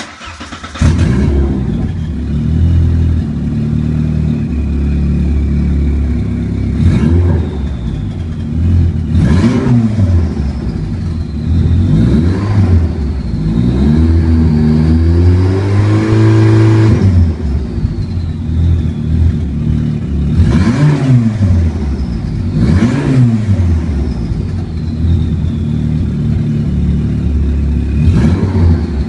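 Turbocharged Renault 19 16v 2.0 engine revved in repeated short blips, with one longer rev about halfway through. After the revs a turbo whistle glides down in pitch, loud through the open screamer pipe.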